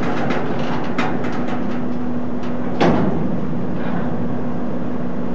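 Empty covered cement hopper cars rolling slowly over the rails, with scattered wheel clicks and one loud clank about three seconds in, over a steady hum.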